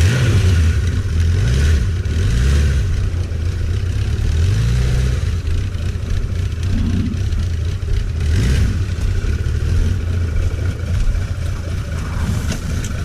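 1991 Suzuki GSX1100F's inline-four engine running at low speed as the motorcycle is ridden slowly, its pitch rising and falling several times in the first five seconds, then steadier.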